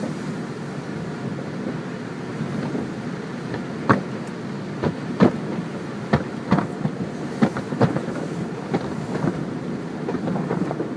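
Car wash machinery running with a steady low rumble. A run of sharp, irregular knocks and clacks comes from about four to nine seconds in.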